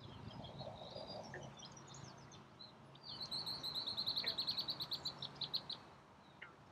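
Wild songbirds singing: scattered high chirps, then about three seconds in a fast, even trill of high notes lasting a few seconds, over a faint low background rumble.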